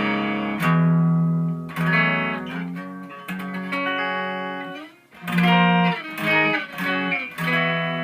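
Les Paul electric guitar on its neck (rhythm) pickup, distorted by a Danelectro FAB D-3 Metal pedal into a Randall RD20 amp's clean channel: a riff of held, heavy notes in drop D flat tuning. The playing briefly stops about five seconds in, then picks up again.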